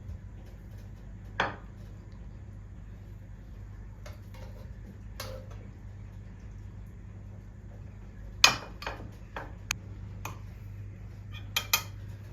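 Kitchenware clinking and knocking: a handful of separate sharp clinks of dishes and utensils, the loudest about eight and a half seconds in and a quick pair near the end, over a steady low hum.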